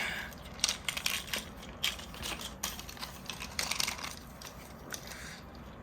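Irregular hard plastic clicks and clacks of Beyblade tops and launchers being handled and fitted together to get ready for a launch.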